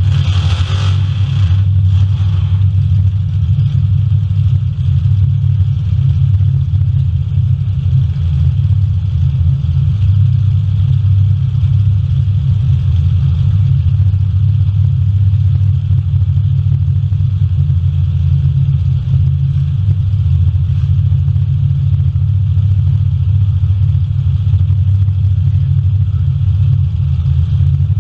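Demolition derby cars' engines running and revving in a loud, steady drone, with a brief noisy burst about a second in.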